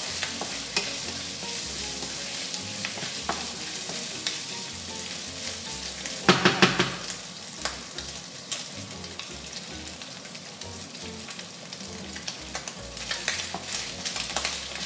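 Bacon and garlic-ginger paste sizzling in a hot nonstick wok, stirred with a wooden spatula that taps and scrapes against the pan, with a louder scrape about six seconds in.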